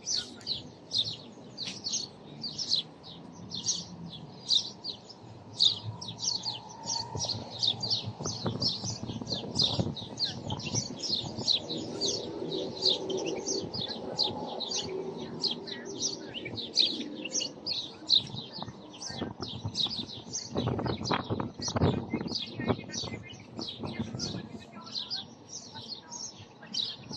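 High, short chirps repeating evenly, about three a second, over a low rustle. About twenty seconds in there is a brief spell of louder low knocking or rustling.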